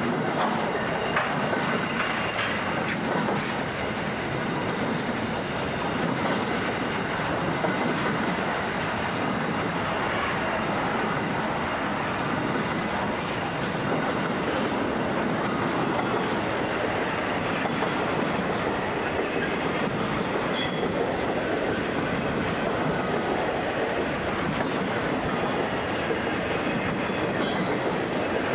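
A long diesel-hauled freight train of boxcars and container wagons rolling past with a steady rumble and wheel clatter. A few brief high wheel squeals cut through near the middle and toward the end.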